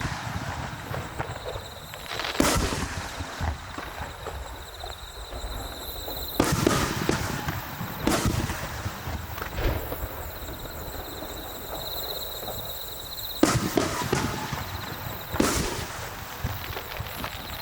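Aerial fireworks shells bursting during a display: a series of sharp booms, about five big ones spread a few seconds apart, with smaller crackling reports between them.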